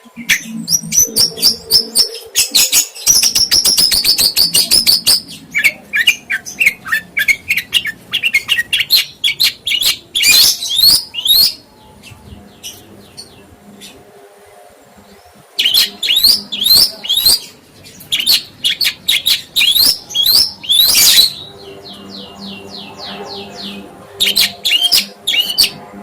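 Songbird singing in loud bursts of rapid, high chirps, trills and quick sliding notes, with short pauses between phrases.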